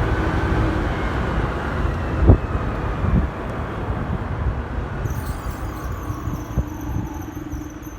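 Motorcycle engine running amid road traffic with wind rumble on the microphone, and two thumps about two and three seconds in. The engine note drops and settles to a steady pulsing idle, while a high wavering squeal joins about five seconds in.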